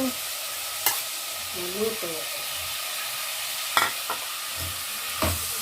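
Pork, carrots and baby beans sizzling as they are stir-fried in a pan, with a few sharp clicks of the spatula against the pan.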